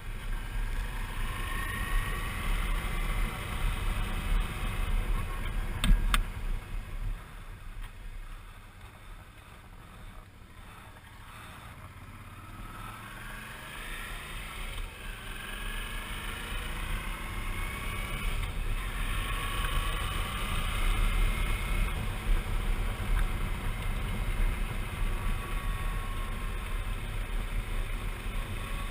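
Suzuki V-Strom 650 V-twin motorcycle being ridden, its engine running under a heavy rush of wind on the microphone, the engine pitch rising several times as it pulls. There is a sharp knock about six seconds in, and the sound drops for several seconds about a third of the way through before building up again.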